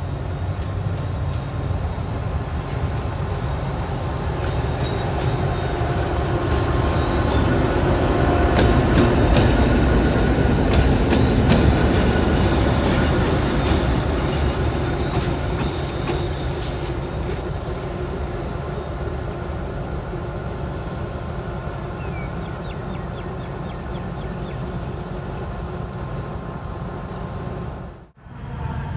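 A train passing close by: a steady rumble that swells to its loudest about ten seconds in and then slowly fades, with clicks from the wheels crossing rail joints as it goes by. A brief faint wheel squeal comes later, and the sound cuts out for a moment near the end.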